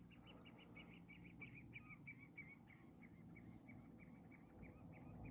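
Faint, rapid run of short high chirps, about six a second, from a small bird calling in the distance over a quiet background.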